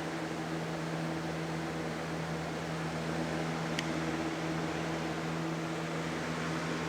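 Electric box fan running steadily: a motor hum with a few steady low tones under an even rush of air. A faint click about halfway through.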